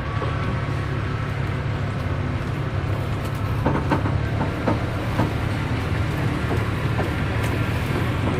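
Land train running slowly along the road: a steady low engine drone, with the carriages rattling and knocking irregularly from about three seconds in.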